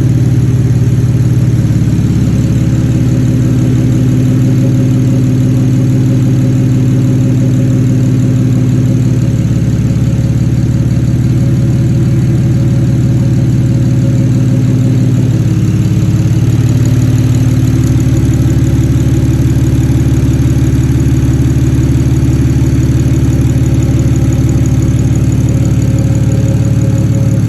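Engine of a BMW E90 converted to a single Precision 6762 turbo, idling steadily and loudly, with a brief change in tone about halfway through.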